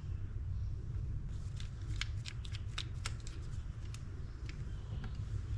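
A quick run of light clicks and taps, about a dozen in two seconds, then a few scattered ticks, from small metal spinning-reel parts and tools being handled on a bench, over a steady low hum.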